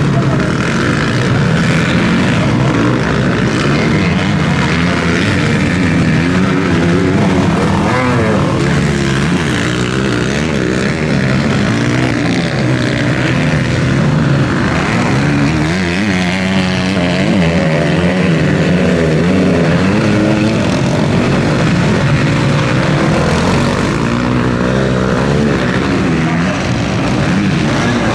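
Several motocross bikes racing, their engines revving up and down and overlapping as they pass, with rising and falling pitch throughout.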